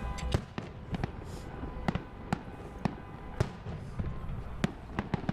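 Fireworks display: aerial shells bursting in a quick irregular series of sharp bangs and cracks, about two a second, over a steady background rumble.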